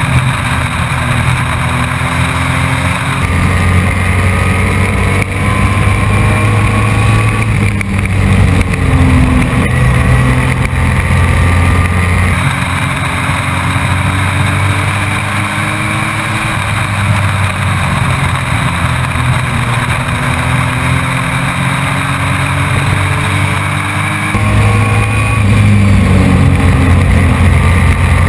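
Race truck's engine heard from inside the cab, running hard with its pitch rising and falling as the throttle is opened and lifted, several times.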